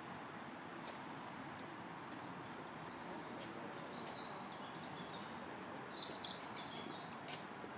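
Small birds calling over a steady background hiss: faint high chirps and short ticks scattered throughout, with one louder, brief burst of high notes about six seconds in.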